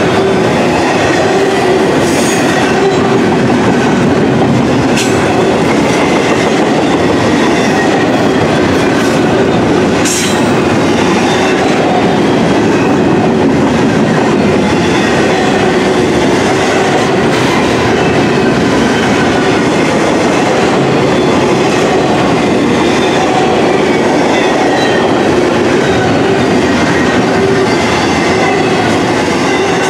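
Double-stack intermodal well cars rolling past close by: a steady, loud rumble and clatter of steel wheels on the rails, with a few sharp clanks.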